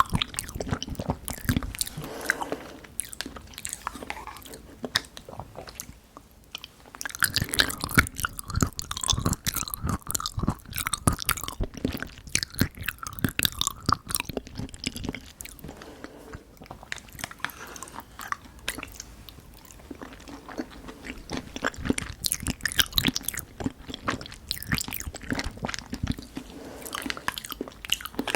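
Close-miked eating sounds of someone chewing pudding: a dense run of wet mouth clicks and chewing, briefly easing off about six seconds in before picking up again.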